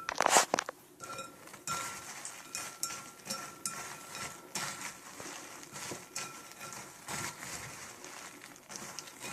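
A utensil stirring butter-coated puffed corn cereal in a ceramic bowl: irregular clinks and scrapes against the bowl over the rustle of the puffs, with a louder clatter just at the start.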